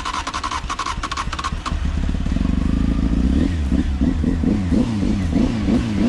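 Rapid, even ticking for about the first second and a half. Then a motorcycle engine runs and is revved up and down repeatedly in quick blips.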